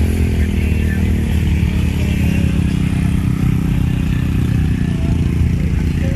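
Truck engine running loudly close by, dropping off a brief rev at the start and settling into a steady idle.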